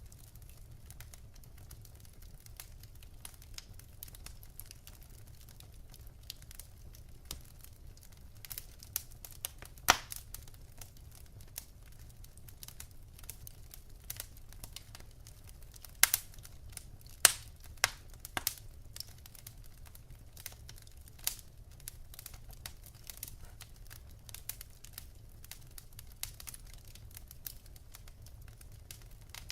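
Wood fire in a fireplace crackling: irregular small snaps throughout, with a few louder pops of the burning logs about ten seconds in and again around sixteen to twenty-one seconds in, over a steady low rumble.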